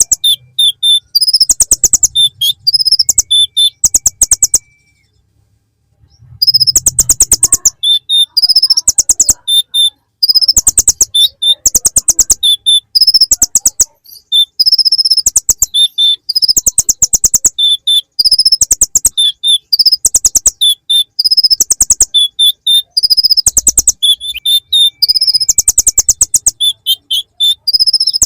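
Olive-backed sunbird (kolibri ninja) singing a stream of rapid high trills and sharp chirping notes in the style of the bar-winged prinia, phrase after phrase, with a short break about five seconds in.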